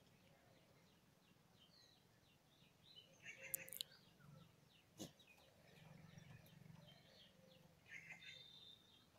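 Near silence, with faint bird chirping in the background: quick, high chirps repeating, a little busier about three seconds in and near the end. A single faint click comes about five seconds in.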